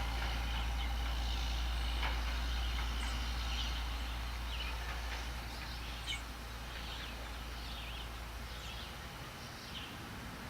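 Small birds chirping: short high calls repeated every second or so through most of the stretch, over a steady low rumble.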